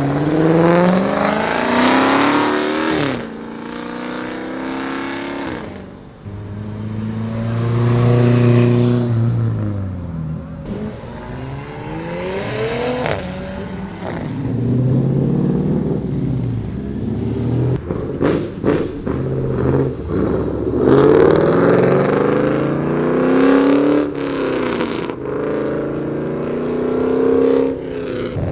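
Car engines revving and accelerating away one after another, each rising in pitch and then falling as it passes. A quick run of sharp cracks comes about two-thirds of the way through.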